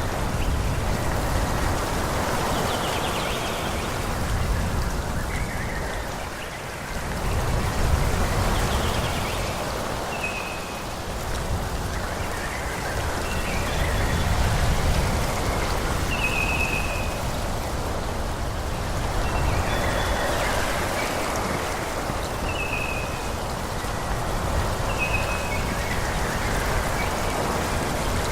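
Wind gusting through forest trees, rising and falling in slow swells, with a bird giving short high chirps every few seconds.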